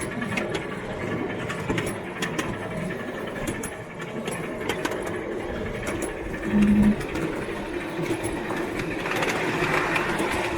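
Garden-railway train running along the track: a steady motor whirr with the clicking of wheels over rail joints, and a short, loud low beep about two-thirds of the way through.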